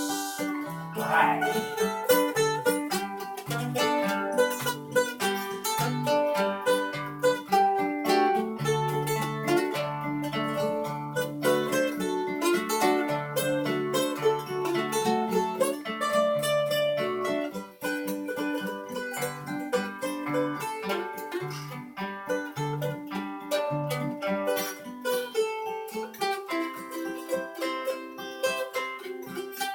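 Instrumental break of an acoustic blues-folk song in G: a plucked-string lead picks a melody in quick notes over acoustic guitar chords and a walking bass line.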